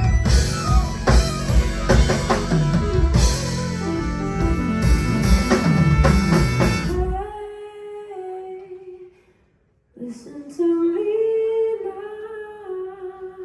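Live band music with drum kit, guitar and bass that drops out about seven seconds in, leaving a lone voice holding a long sung note; after a brief silence the voice holds another long note unaccompanied.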